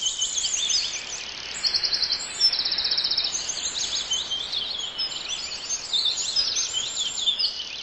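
Small birds singing: many quick chirps and short rapid trills overlapping, high-pitched, over a faint steady hiss.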